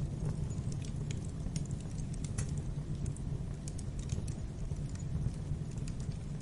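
Wood fire crackling in a fireplace: a steady low rumble of burning with scattered sharp pops and snaps, several a second.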